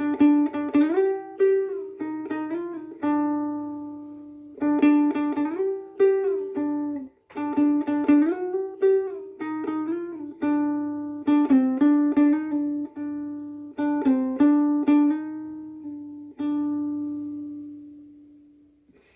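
Soprano ukulele strung with Aquila Reds strings, played as a melody of picked notes and chords that ring on with long sustain. A last note rings out and slowly fades over the final few seconds.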